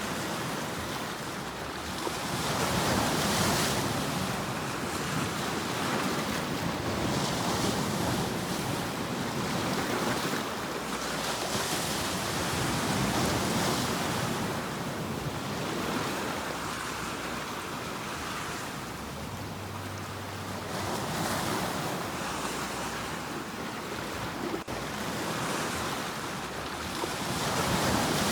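Ocean waves surging and washing in, the surf rising and falling in swells every few seconds.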